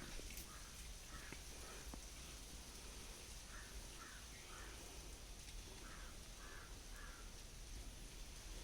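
A bird calling faintly in short repeated notes, a few at a time, several times over.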